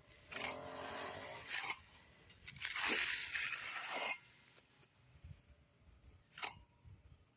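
Stiff broom drawn across freshly poured concrete to give it a broom finish: two strokes of about a second and a half each, the second louder. A couple of short clicks follow near the end.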